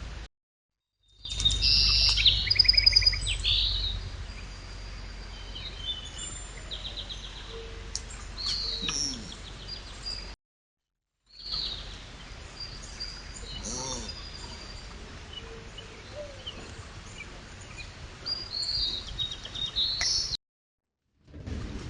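Wild birds chirping and calling, with short rising notes and quick trills, over steady outdoor background noise. A low rumble is loudest over the first few seconds. The sound cuts out to silence twice, where one short clip ends and the next begins.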